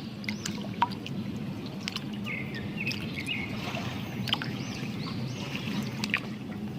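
Water splashing and sloshing with small plastic clicks as a muddy toy is washed by hand, with birds chirping in the background.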